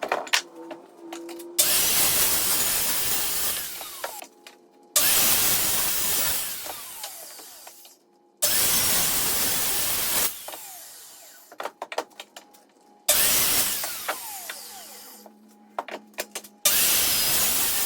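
A power tool working 2x4 lumber in five loud bursts of two to three and a half seconds, each starting sharply and fading away, with small clicks and knocks of handling between them.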